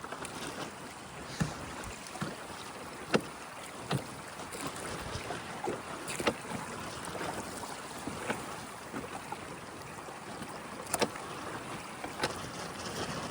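Water rushing past a small 7-foot dinghy as it is carried through tidal rapids, a steady rush broken every second or two by sharp knocks and slaps, with wind on the microphone.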